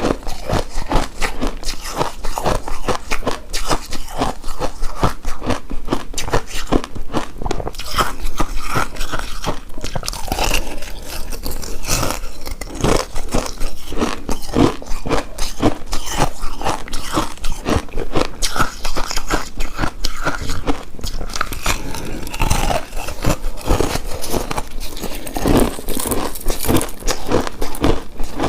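Close-miked ASMR mouth sounds of a person biting and chewing a soft, chewy coconut rice cake coated in shredded coconut: a dense run of sticky, wet smacks and clicks.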